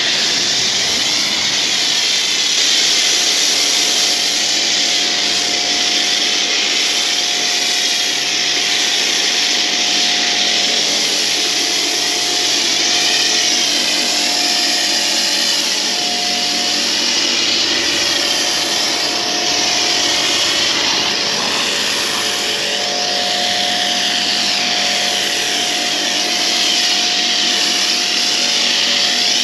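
Pressure washer running with a steady motor whine while its jet of water sprays against car bodywork, the hiss wavering as the spray moves over the surface.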